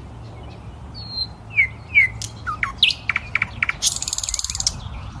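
Songbird chirping: a run of short, sharp downward-sweeping chirps and notes, ending in a brief high buzzy trill, over a steady low background hum.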